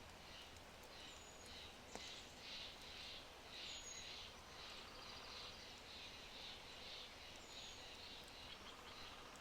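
Faint birdsong: a bird's high chirping notes repeated two or three times a second, with a few short thin whistles, over a low steady hiss. A single sharp crackle from the burning oak fire comes about two seconds in.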